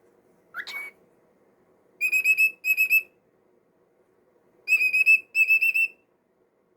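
Cockatiel whistling: a short rising chirp, then two bursts of quick, wavering high whistle notes, each in two short phrases.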